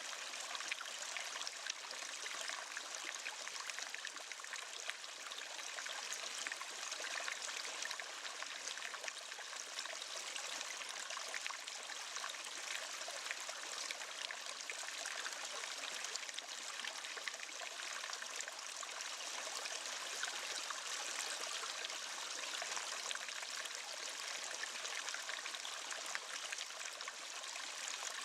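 Waterfall: water falling and splashing in a steady, unbroken rush, bright and hissing, with little deep rumble.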